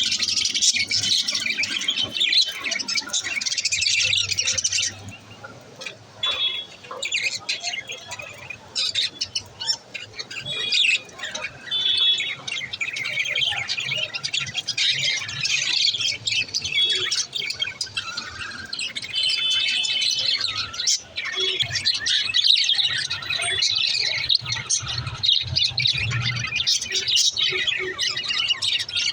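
Budgerigars chirping, squawking and warbling in a rapid, continuous chatter. The chatter is busiest in the first five seconds, thins out for a few seconds, then picks up again.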